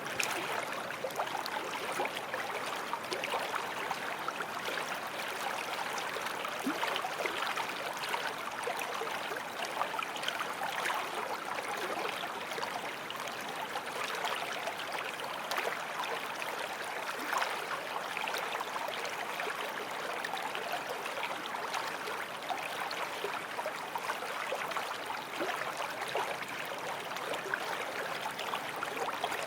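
Small forest stream flowing over stones: a steady babbling rush with many small splashes and gurgles.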